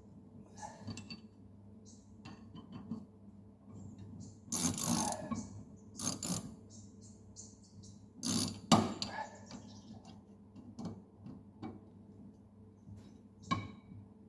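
Metal hand tools working on a mower-deck blade bolt: irregular clinks and clanks of a wrench against steel parts, with the loudest knocks about four to five seconds in, around six and eight seconds, and once near the end, over a steady low hum.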